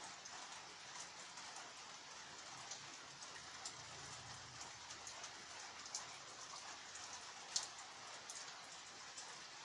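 Rain falling steadily: a soft, even hiss with individual drops ticking here and there, one sharper drop about three quarters of the way through.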